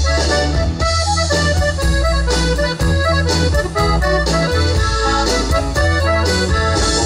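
Live Tex-Mex band playing an instrumental break, an accordion carrying a quick melody over a steady bass line and drum beat.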